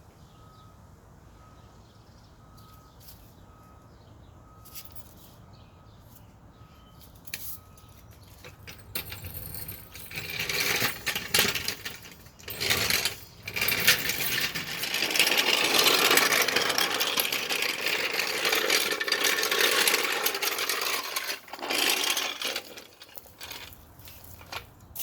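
Metallic clattering and scraping of tools or equipment being handled. It is quiet with a few faint clicks for about eight seconds, then loud and continuous with many small clicks, stopping a couple of seconds before the end.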